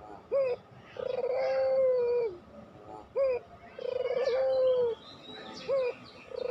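Puter pelung dove (domestic Barbary/ringneck dove) cooing: a long, drawn-out coo that opens with a rapid tremble and then holds level, answered by a short up-and-down note, repeated about every three seconds. Faint chirps from other small birds sound behind it.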